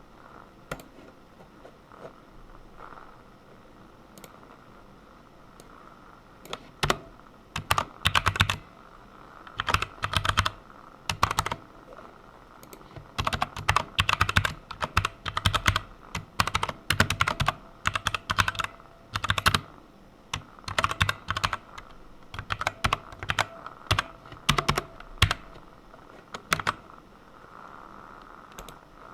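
Typing on a computer keyboard: a few scattered key clicks for the first several seconds, then quick bursts of keystrokes separated by short pauses, tailing off near the end.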